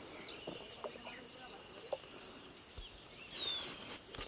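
Small songbirds singing in quick, high, chirping phrases that sweep up and down, repeated several times with a short falling whistle near the end.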